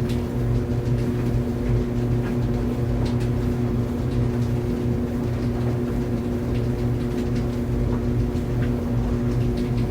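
Clothes dryer running: a steady hum with faint, scattered light ticks over it.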